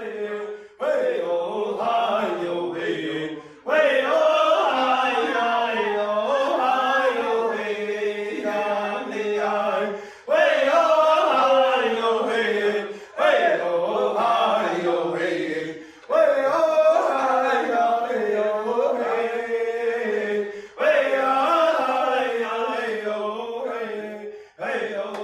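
Voices chanting a song in phrases a few seconds long, each starting suddenly at full strength and fading, with short breaks between.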